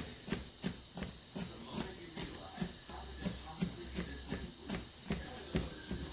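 Knife mincing garlic cloves on a cutting board: a steady run of quick taps, about three a second.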